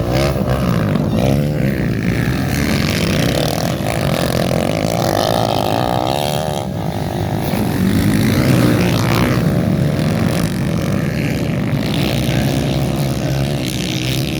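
Motocross motorcycle engines revving and running, several at once, their pitch climbing and falling over and over as they race.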